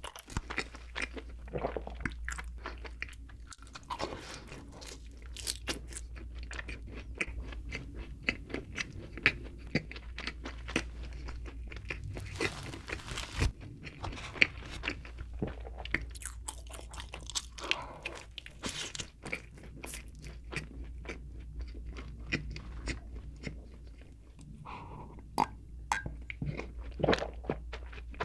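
A person chewing and biting donuts close to the microphone: a steady run of small crunches and mouth clicks over a low, steady hum.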